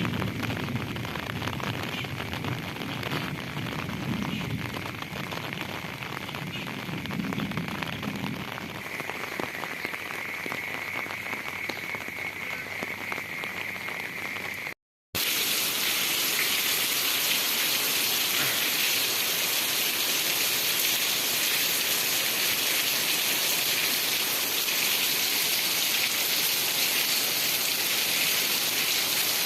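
Heavy rain falling and spattering on surfaces, a dense steady hiss, with a low rumble under it for the first several seconds. About halfway it cuts out for a moment and comes back louder and hissier.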